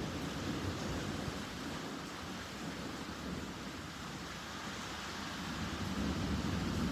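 Rainstorm: a steady hiss of rain over a low rumble that swells near the end.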